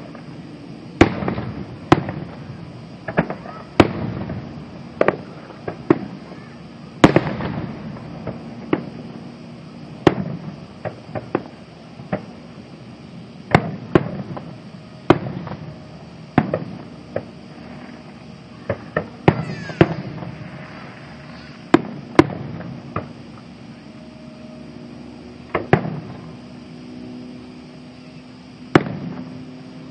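Aerial fireworks shells bursting: a series of sharp bangs at irregular intervals, some close together, each trailing off in a short rumble.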